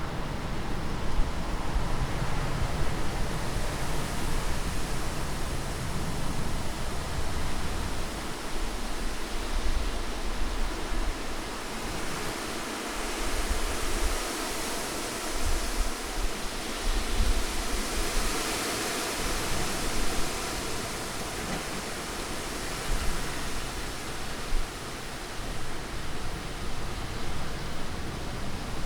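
Heavy rain falling in a steady, dense hiss, with a low rumble underneath; the hiss swells a little about halfway through.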